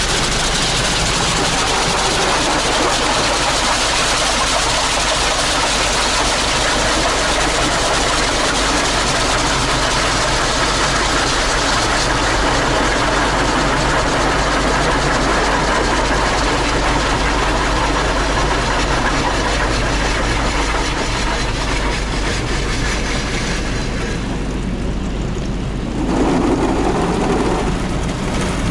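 Automatic car wash running over a car: a loud, steady rush of spraying water and wash machinery. Near the end the hiss thins and a lower, slightly louder rumble takes over.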